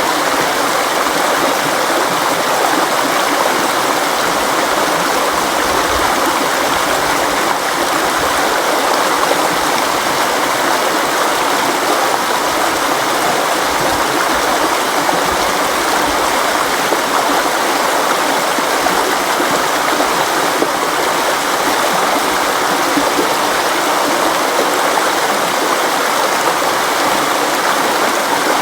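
River water flowing over rocks, a steady rushing and burbling that does not change.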